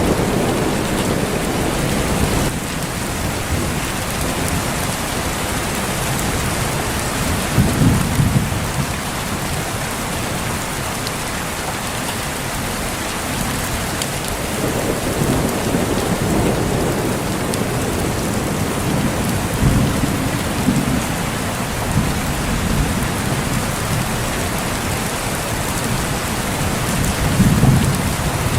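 Steady heavy rain with low rolls of thunder that swell and fade several times, the strongest about eight seconds in and again near the end.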